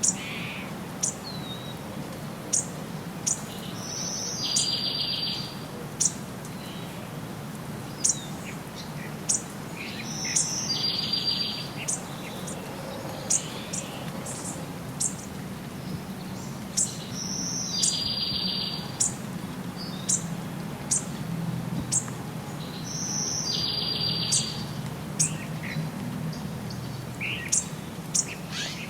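Songbirds chirping: many short, sharp high chirps, with a buzzy trill returning about every six or seven seconds, over a steady low rumble of background noise.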